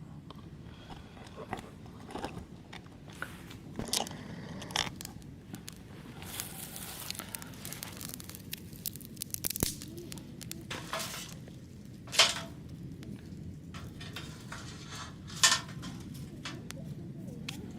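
Hands handling camping gear: rustling and crinkling with scattered clicks and a few sharper knocks, the loudest about 12 and 15 seconds in.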